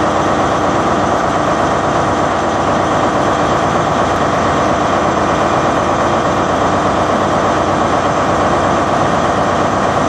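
Loud, steady vehicle engine noise.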